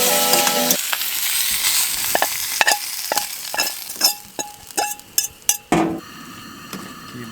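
Potatoes and kielbasa sizzling in a frying pan while being stirred, a utensil clicking and scraping against the pan. The sizzle thins out after about four seconds, leaving scattered taps.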